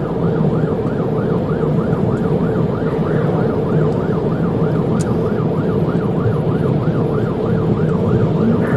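Police car siren on a fast yelp, sweeping up and down about three times a second, over steady engine and road noise.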